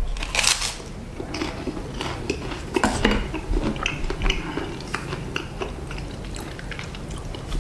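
Clinks and clicks of dishes and cutlery being handled at a table during a taste test, with a sharp knock about half a second in and smaller clicks scattered after it.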